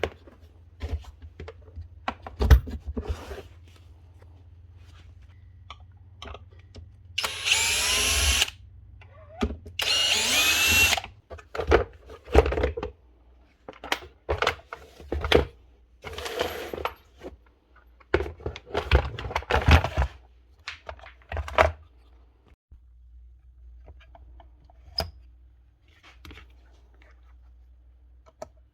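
A cordless drill-driver running in two short bursts, about seven and ten seconds in, its pitch rising as it spins up, amid scattered clicks and knocks of parts being handled.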